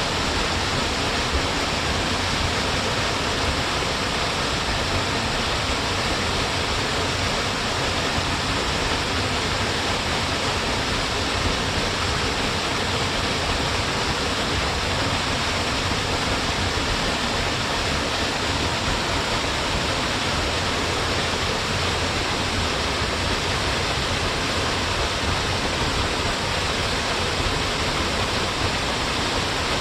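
A narrow waterfall falling straight down in a single line of water, a steady, even sound of falling water with no change over the stretch.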